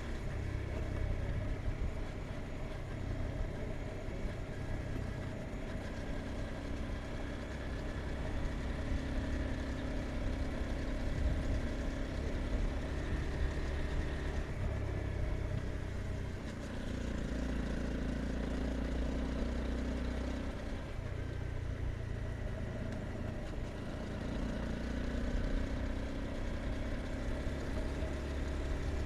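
Honda CBR 250R's single-cylinder engine running under way, its note stepping up and down several times as the rider works the throttle and gears.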